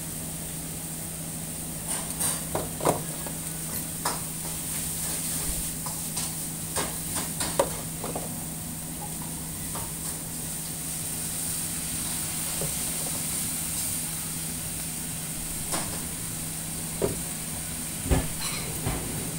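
Beef fried rice sizzling on a flat-top teppan griddle: a steady frying hiss over a steady low hum, with scattered sharp clicks and knocks, the loudest near the end.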